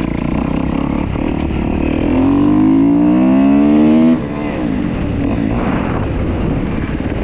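2015 Kawasaki KX250F single-cylinder four-stroke dirt bike engine running under way. About two seconds in it revs up, its pitch rising for about two seconds, then the throttle shuts abruptly and it drops back to lower running. The engine has its intake valve clearances freshly adjusted.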